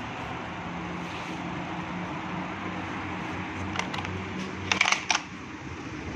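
Steady low mechanical hum with hiss, broken by a few sharp clicks just before four seconds in and a brief clatter of louder clicks about five seconds in.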